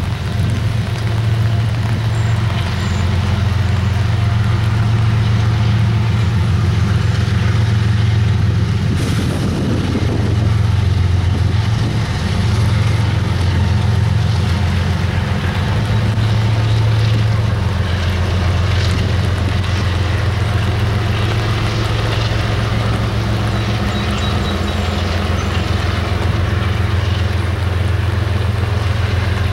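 Diesel locomotives of a slow-moving intermodal freight train running with a steady, loud low drone as the train passes, with the rumble of the double-stack container cars.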